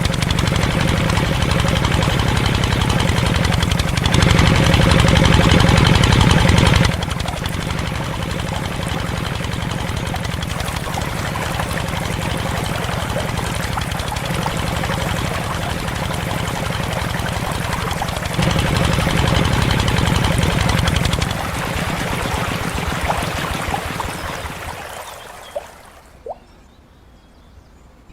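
Small engine of a homemade model tractor running with a fast, even knocking beat. It grows louder twice, then winds down and stops near the end, leaving a few light clicks.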